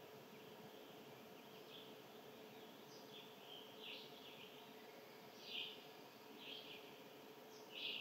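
Small birds giving short, sharp chirps, about one a second, faint with the loudest near the end.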